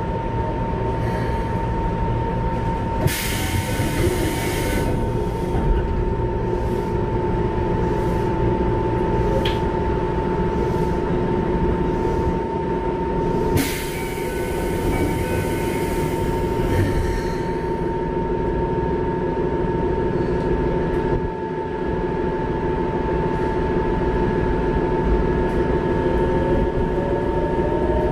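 Keikyu 1500 series electric train running, heard from inside the car: steady rumble of wheels on rail with a constant high tone. Two stretches of high hiss, a couple of seconds each, come about three and fourteen seconds in. Near the end a tone starts to rise, typical of the Mitsubishi GTO-VVVF traction equipment under power.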